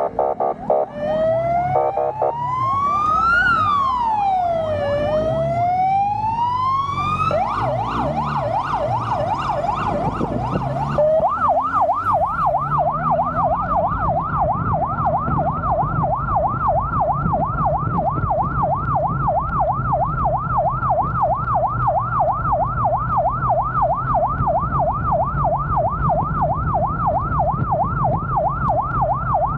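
Electronic emergency siren on a response vehicle running with an ambulance: a slow wail that rises and falls, speeding up, then switching about eleven seconds in to a fast repeating yelp. A steady engine drone runs underneath.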